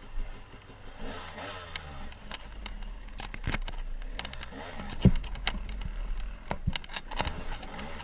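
Dirt bike engine running and revving on a rough trail, with sharp knocks and clatter scattered through, the loudest about three and five seconds in.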